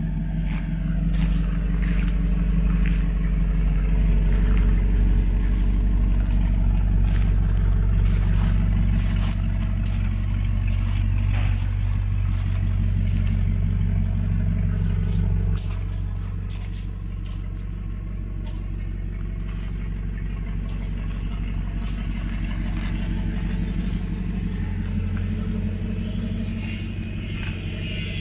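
Audi R8's 4.2-litre V8 idling steadily through a de-catted Quicksilver exhaust, a little quieter from about halfway through. Footsteps on gravel click faintly on top.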